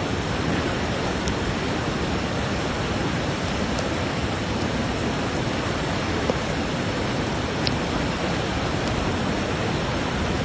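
Steady, even rush of water in a torrential-rain flood, with a few faint ticks on top.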